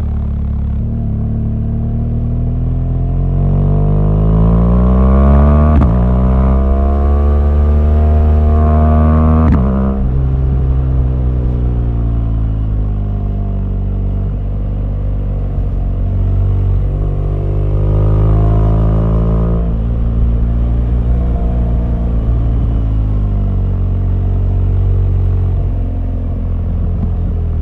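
BMW R1200GS flat-twin boxer engine pulling under acceleration, its pitch climbing, then dropping sharply about six and nine and a half seconds in as the throttle closes for gear changes. After that the revs rise and fall several more times as the bike rides on.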